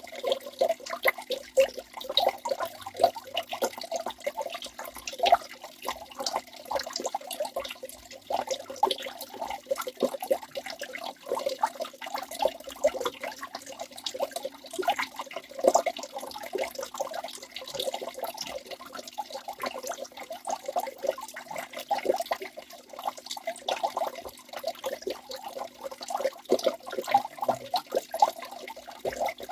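Waterfall running continuously, water splashing and gurgling with many small irregular splashes in a steady rush.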